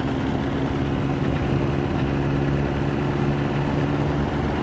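Kawasaki ZX-9R inline-four engine running at a steady pitch while riding, under steady wind noise, heard muffled through a recorder in the rider's inside jacket pocket.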